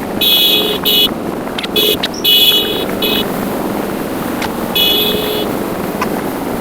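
Motorcycle riding along with steady engine and wind noise, broken by a string of short honks from a vehicle horn in the first few seconds and one more about five seconds in.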